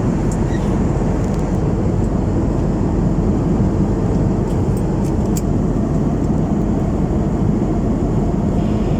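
Steady low cabin noise inside an Airbus A321 airliner at cruise: an even rush of engine and airflow noise, with a few faint clicks.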